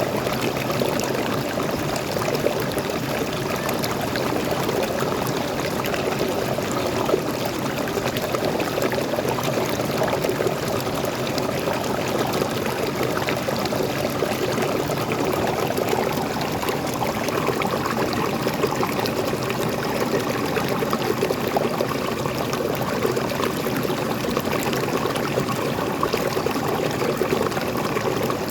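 Small waterfall and stream flowing steadily, water splashing and babbling over rocks.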